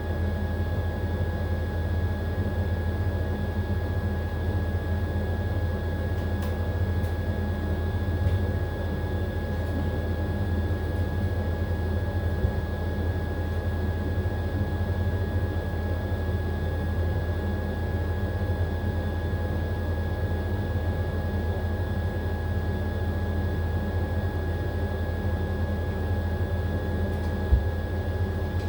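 AQUA AQW-DX12M drum washing machine running steadily through its final spin: a strong low hum with a constant motor whine, and a couple of small knocks.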